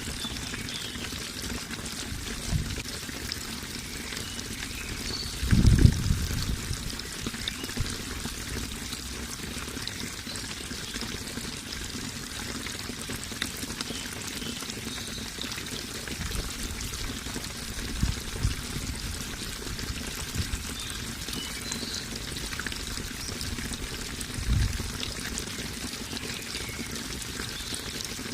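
Running water pouring and trickling steadily, with a few short low thumps, the loudest about six seconds in.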